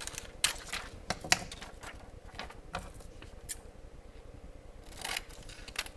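Scissors cutting through a sheet of transparent overhead-projector plastic, with the stiff sheet crinkling as it is handled: irregular short snips and rustles.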